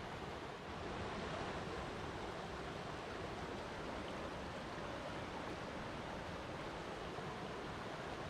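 Flowing water rushing steadily, an even hiss-like noise with no separate splashes or drips.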